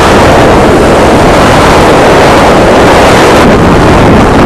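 Heavy wind noise buffeting a helmet-mounted external microphone while riding a motorcycle: a loud, steady rush with no break.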